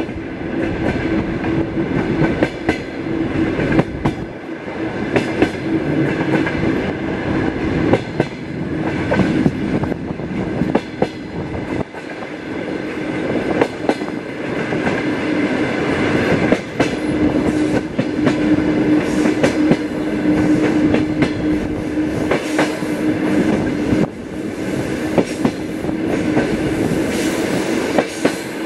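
Suburban passenger train carriage running along the track: a continuous rumble of wheels on rail with clicking over the rail joints. A steady humming tone fades in and out through it.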